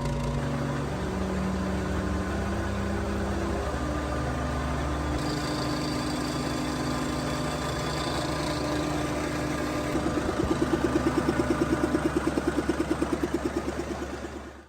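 Large engine running steadily at low speed. From about two-thirds of the way in, a rapid, even pulsing beat comes through.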